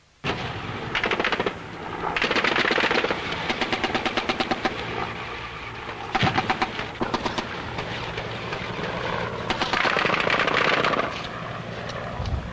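Automatic gunfire: several bursts of rapid shots, some long and some short, starting abruptly and coming in quick succession.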